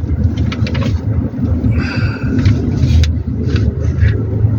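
Toyota Hilux pickup driving, heard from inside the cab: a steady low rumble of engine and road noise, with a few short clicks in the first second and a brief higher-pitched sound about two seconds in.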